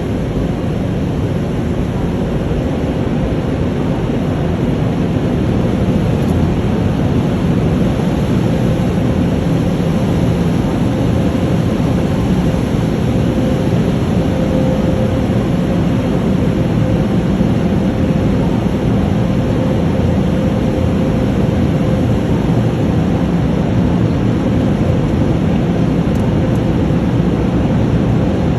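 Automatic car wash machinery running: a loud, steady rushing noise that does not let up.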